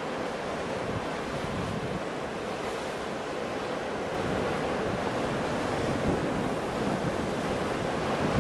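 Ocean waves washing on the shore in a steady surf, with wind, growing a little louder after about five seconds.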